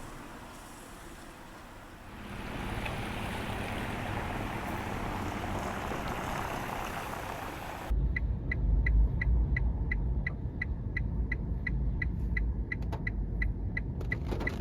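An even rush of outdoor noise. About eight seconds in it switches abruptly to the low rumble of a car's interior, with a regular sharp ticking about three times a second, like a car's turn-signal indicator.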